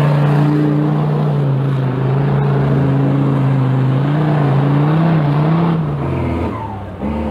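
Land Rover TD5 five-cylinder turbodiesel engine held at high revs under load as the off-road vehicle works over an obstacle. The engine note stays steady with slight wavers, then eases off about six seconds in.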